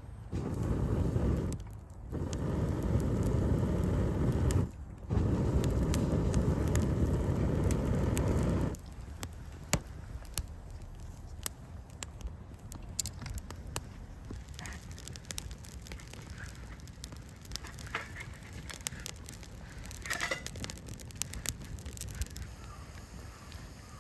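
Wood campfire crackling and popping with many sharp snaps. A loud low rumble covers the first nine seconds or so, with two brief breaks, and then stops suddenly, leaving the crackling clear.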